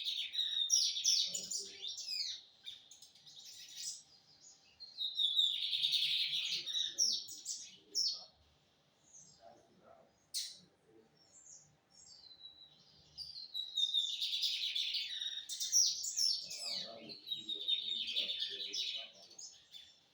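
Lined seedeater (bigodinho) singing: three bursts of fast, high chirping song with short pauses between them, the last one the longest.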